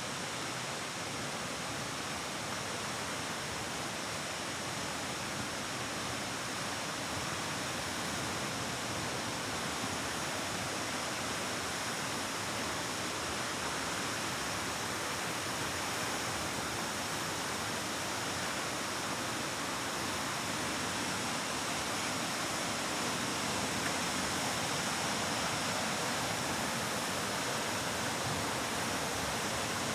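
Waterfall pouring into a cave, a steady, even rush of falling water echoing off the rock.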